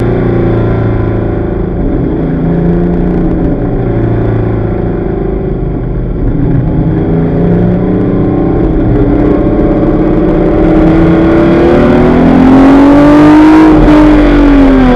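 Onboard sound of a Ford Capri RS 2600 race car's V6 engine under way. Its pitch climbs steadily from about six seconds in as it accelerates and gets louder, then drops near the end as the driver lifts off.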